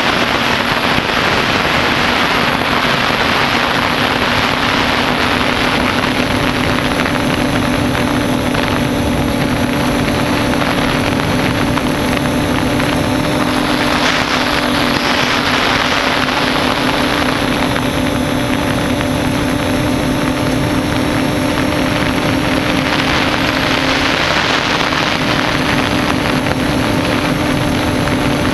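Quadcopter's electric motors and propellers whining steadily in flight, with a rushing hiss that swells and fades three times.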